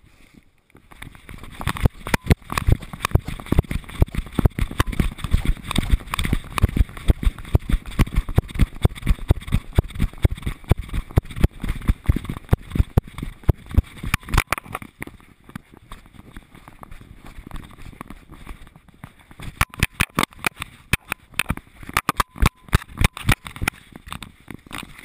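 Quick, uneven knocks and rattles from an action camera in its housing on a dog's harness, jolted with each stride as the dog moves along a dirt trail. They ease off briefly in the middle and then come back strongly.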